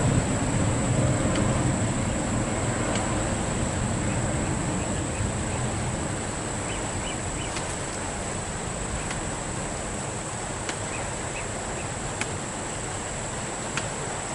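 Airliner engine noise dying away over the first several seconds as the plane moves off. A steady, high insect drone and a few faint ticks remain.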